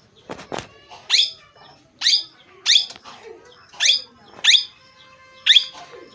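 Pet parrot giving a series of short, shrill calls, about one a second, each sweeping quickly up in pitch. A brief low thump sounds just after the start.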